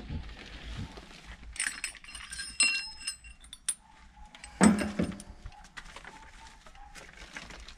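Metal engine parts and tools clinking and knocking together during an engine teardown. A few bright clinks ring briefly, and a heavier knock comes a little past the middle.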